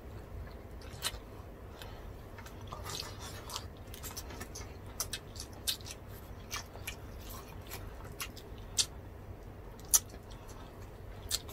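Two people chewing and smacking their lips as they eat grilled pork belly, roast chicken and rice by hand, with irregular sharp mouth clicks and smacks, the loudest about ten seconds in.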